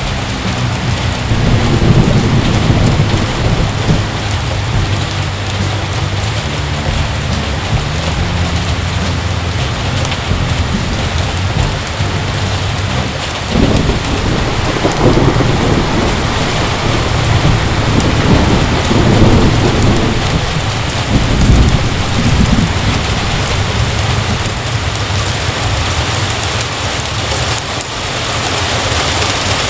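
Heavy rain falling steadily, with rolls of thunder rumbling: one near the start, and a longer series of rumbles from about halfway through to about two-thirds of the way in.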